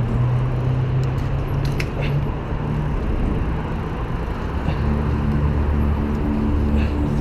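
Street traffic noise with a car engine's low hum, heard from a moving bicycle, with a few sharp clicks about two seconds in.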